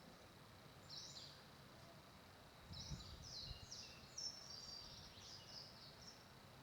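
Faint birds chirping: short, high, falling notes, a few near the start and a busier run through the middle, over a low outdoor hiss.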